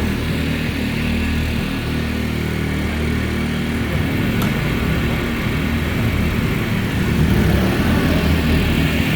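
Tsuzumi TIG 2000 IS inverter generator running with a steady, even engine hum.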